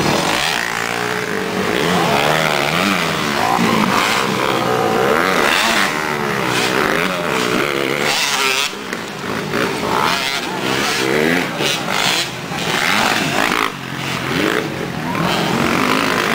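Motocross bike engines revving, their pitch rising and falling again and again as the throttle is opened and closed.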